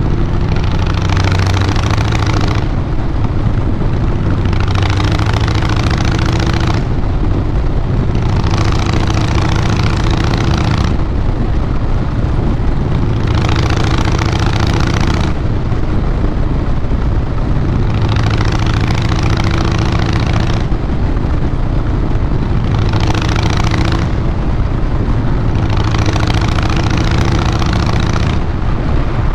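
2012 Harley-Davidson Fat Boy Lo's Twin Cam 96B V-twin running through a Vance & Hines Big Radius 2-into-2 exhaust: a steady, loud, low drone. A hiss rises and falls over it every few seconds.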